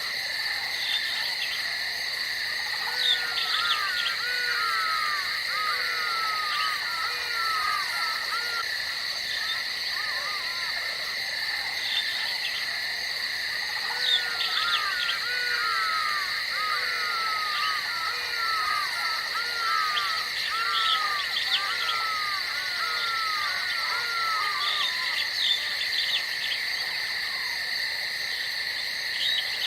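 Tropical rainforest ambience: a steady, high insect drone, with two long runs of short, repeated downward-sweeping animal calls over it.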